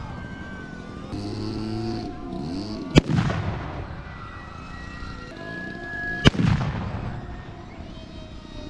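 Two pyrotechnic explosions about three seconds apart, each a sharp bang followed by a rumbling tail, from a staged ground-attack show.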